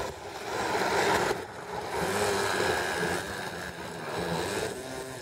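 Small radio-controlled model airplane engine running at high revs, its pitch wavering and bending up and down, louder about a second in and again from about two to three seconds.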